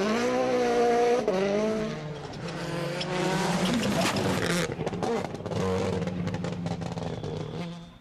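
Rally car engine at high revs, its pitch swooping down and up through gear changes, with tyre squeal. From about halfway it holds a steadier note under a run of sharp cracks.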